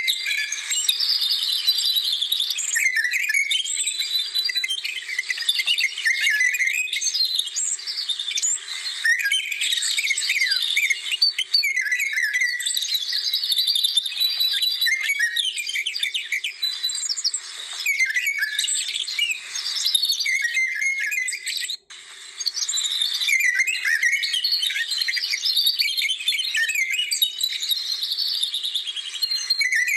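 Many small birds chirping and singing together in a dense, continuous chorus of quick high calls. The sound cuts out briefly about twenty-two seconds in, then the chorus resumes.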